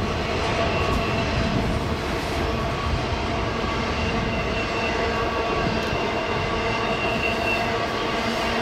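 Intermodal freight cars rolling past on a curve, giving a steady rumble and rattle of steel wheels on rail. A faint high-pitched wheel squeal comes in about halfway through.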